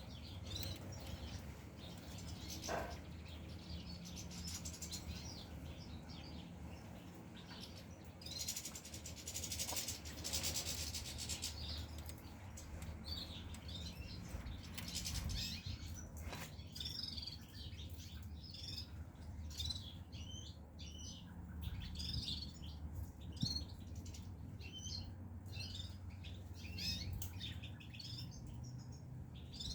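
Small finches, goldfinches, chirping and twittering in short, quick notes, with a rustling burst about eight to eleven seconds in, over a steady low hum.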